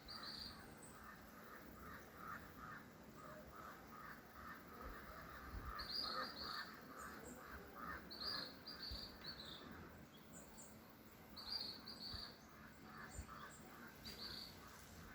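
Birds calling faintly outdoors: a quick run of repeated short calls, with pairs of short high chirps every few seconds.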